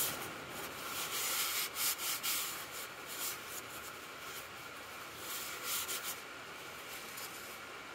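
Irregular rubbing strokes as the oily sump around the drain plug of a Volvo D5 is cleaned with brake cleaner, dying away about six seconds in.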